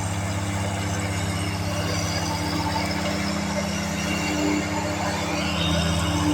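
Lawn mower engine running steadily under load while cutting tall, thick grass.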